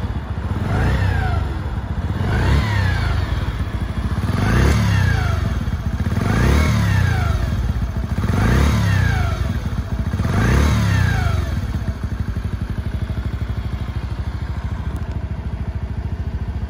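Air-cooled 50cc motorcycle engine, still cold and warming up on part choke, revved six times about two seconds apart, each rev rising and falling back. It then settles into a steady idle about twelve seconds in.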